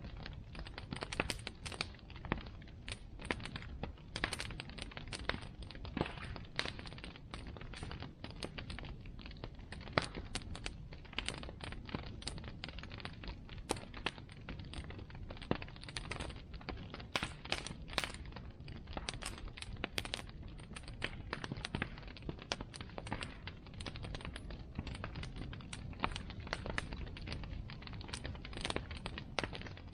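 Bonfire crackling, with many irregular sharp pops and snaps from the burning wood over a low, steady rush.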